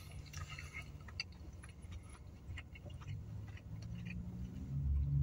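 Chewing and mouth sounds from someone eating a burger: scattered small clicks and smacks over a low, steady hum.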